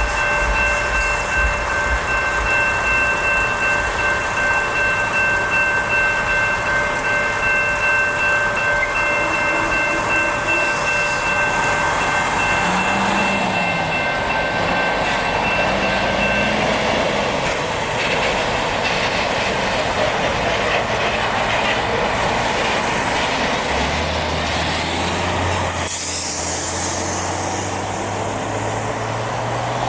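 Freight cars rolling through the grade crossing with steady wheel clatter and rumble. For the first half, the crossing's NEG electronic bell rings steadily until it stops a little past halfway. Near the end, a road vehicle's engine rises in pitch as it pulls away.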